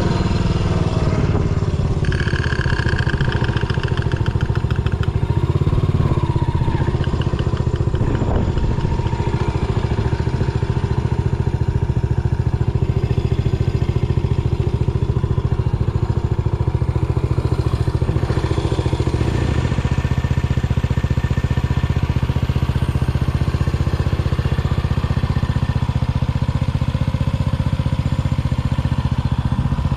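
Yamaha SR400's air-cooled single-cylinder engine running steadily.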